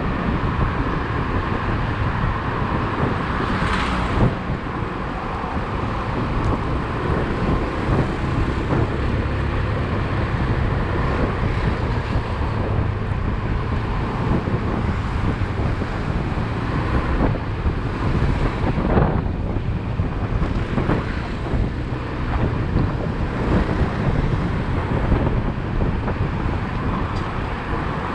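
Motorcycle riding along city streets: steady engine and road noise with wind rushing over the microphone, and other traffic around.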